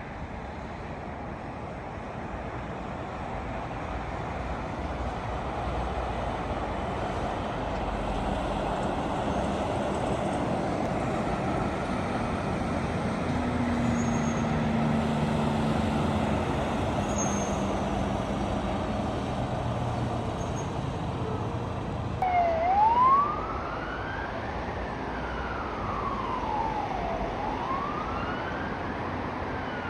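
Road traffic with a heavy vehicle's engine drone building and passing, then an emergency vehicle siren comes in about two-thirds of the way through with a short loud blast and wails in slow rising and falling sweeps.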